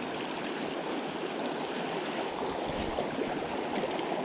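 Small mountain stream running, a steady rushing and babbling of water over rocks.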